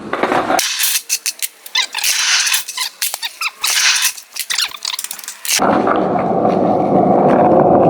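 A rapid string of sharp clicks and knocks lasting several seconds. Then, about five and a half seconds in, the steady rumble of skateboard wheels rolling over pavement begins.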